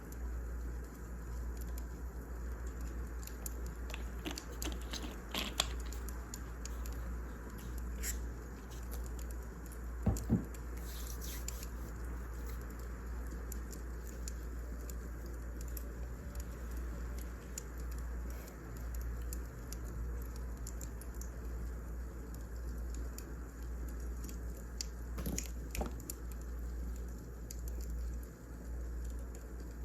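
Wood fire crackling: irregular sharp pops and snaps, with a louder double pop about ten seconds in, over a steady low hum.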